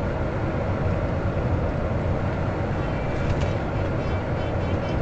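Truck cab while driving: the engine and road noise run as a steady low rumble.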